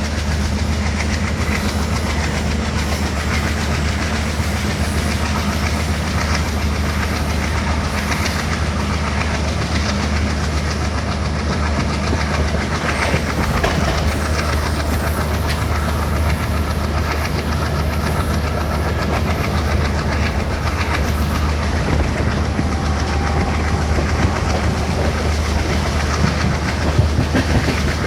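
Express train running, hauled by twin WDM3D diesel locomotives: wheels clattering over the rails, with a steady low drone underneath.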